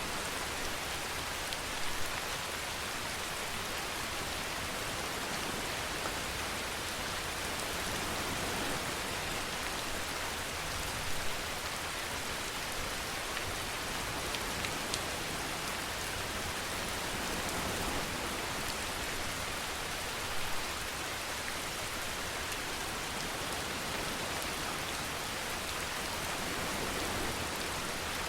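Steady rain: an even hiss of rainfall with faint scattered drop ticks and a few brief louder swells.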